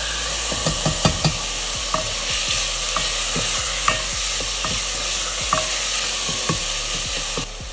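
Chopped tomatoes and onions sizzling in hot oil in a steel pressure cooker while a wooden spatula stirs them, knocking and scraping against the pot a dozen or so times. The sizzle drops away near the end.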